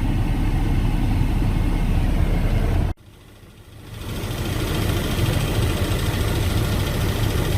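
Car engine idling, a steady low rumble heard from inside the car. It cuts off abruptly about three seconds in and returns about a second later.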